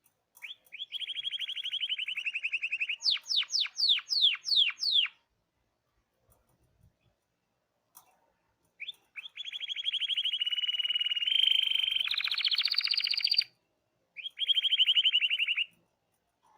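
Canary singing: a fast trill on one pitch, a run of about seven quick downward-sweeping notes, then after a pause of about four seconds a long trill that climbs in pitch near its end, followed by a shorter trill.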